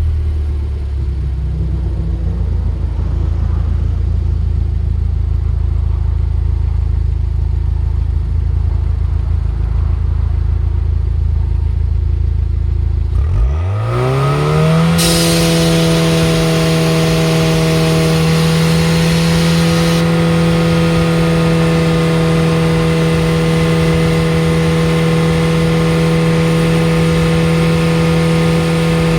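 Car engine and exhaust idling with a low, steady note, then revved up about halfway through and held at a steady higher rpm for the rest.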